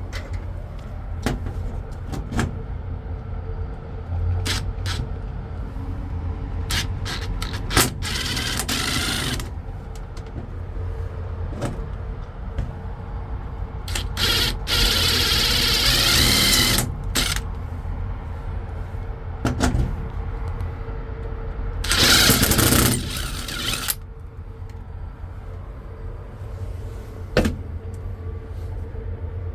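Steady low rumble with a faint steady hum, scattered clicks and knocks, and three bursts of hiss, each one to three seconds long.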